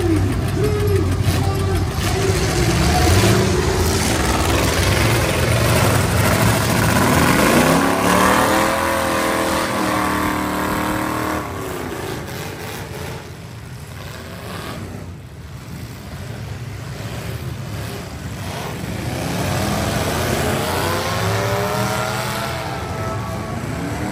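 Demolition derby cars' V8 engines running and revving, the pitch sweeping up and falling back as they accelerate. It revs hard about a third of the way in and again near the end, and runs quieter in between.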